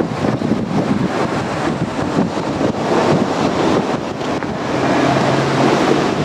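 JR Kyushu 787-series electric train running past, with a dense wheel-on-rail rumble and clatter and wind buffeting the microphone. A low steady hum joins about five seconds in.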